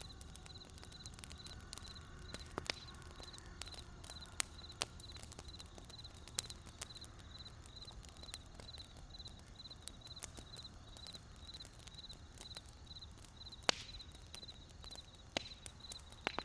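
Burning wood crackling, with scattered sharp pops standing out over a low rumble. A faint high chirp repeats evenly about twice a second throughout.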